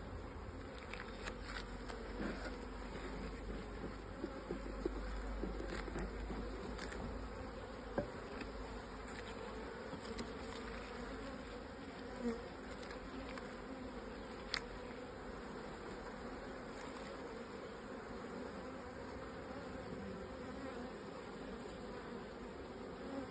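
Honeybees from an opened hive buzzing steadily in a dense swarm-like hum, with a few small sharp clicks scattered through it.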